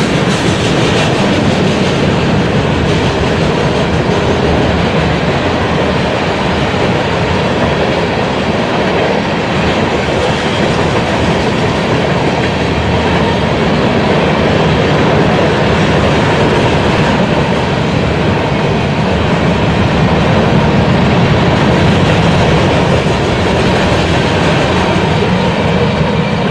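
Freight train passing close by: loud, steady rolling noise of railcar wheels on the rails that carries on unbroken.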